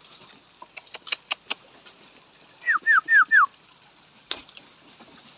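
A bird calling: four quick, clear whistled notes, each falling in pitch. Before them comes a short run of about five sharp clicks, and a single click follows later.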